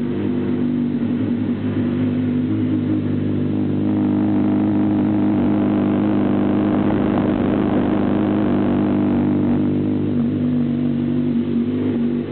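Suzuki GSX-R 600 K5 inline-four motorcycle engine running steadily, brought up to a slightly higher, held engine speed about four seconds in and eased back down near the end. It sounds a little odd through a camera microphone not made for such loud sound.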